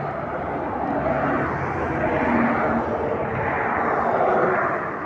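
A road vehicle passing on the highway: tyre and engine noise that swells for about four seconds, then eases away.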